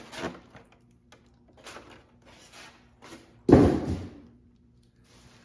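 Parts and packing being handled, with a few light knocks and rustles, then one heavy thump about three and a half seconds in as something is set or dropped down.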